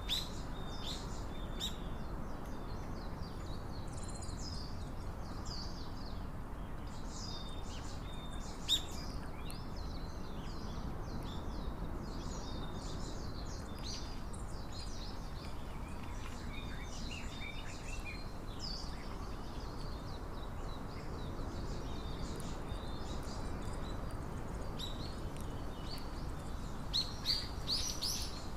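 Small birds chirping: short, high calls scattered throughout, with a quick flurry near the end, over a steady low background rumble.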